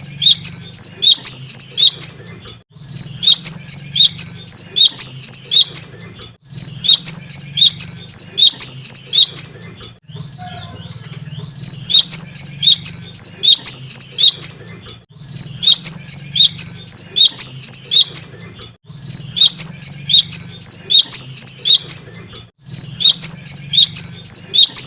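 Cinereous tit singing loudly and persistently, bouts of rapid, sharp, high repeated notes a few seconds long with short breaks between, and a longer pause about ten seconds in. A steady low hum runs underneath.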